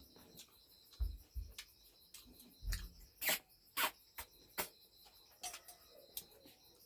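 Close-miked eating sounds: a run of wet mouth clicks and smacks from chewing, with a few soft low thumps about one second in and again near three seconds.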